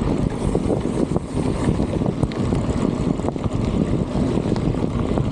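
Strong wind buffeting the microphone: a dense low rush of noise that swells and dips, with a few faint clicks.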